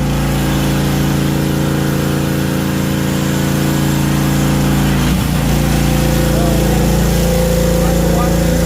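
Small gasoline engine running steadily at a constant speed, with a brief dip in pitch about five seconds in before it settles again.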